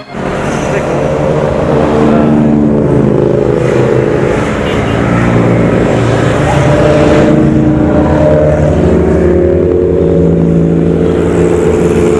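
Several big motorcycles running and revving close by, their engine notes rising and falling over a heavy low rumble.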